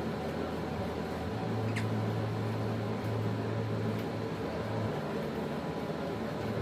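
Steady low hum over background noise, the hum growing stronger from about a second and a half in until about five seconds in. One brief high chirp comes about two seconds in, likely a lovebird.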